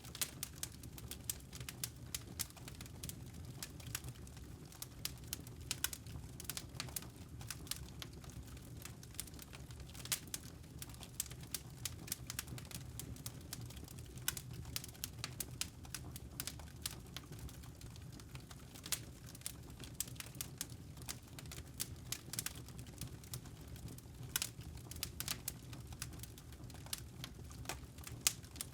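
Wood fire burning with a steady low rumble and frequent irregular, sharp crackles and pops of burning logs.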